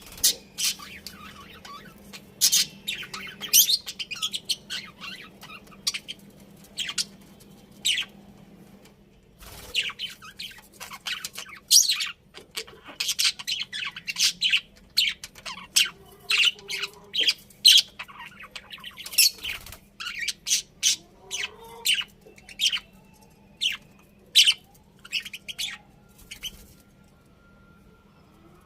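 Pet budgerigars chirping and squawking: many short, sharp, high calls in quick, irregular succession, with a steady low hum underneath.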